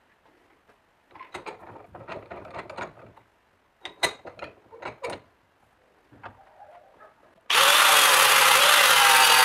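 Scattered clicks and scrapes of tools and metal being handled, then about two seconds before the end an electric power tool starts and runs loud and steady, its pitch wavering slightly under load.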